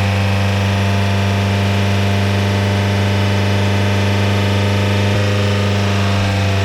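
Nissan 1.5 dCi K9K four-cylinder diesel engine running steadily with an even drone. There is a faint click about five seconds in.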